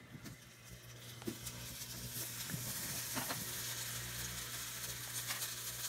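Slices of Japanese yam sizzling in hot sesame oil in a rectangular frying pan. The sizzle builds over the first couple of seconds as more slices are laid in, then holds steady.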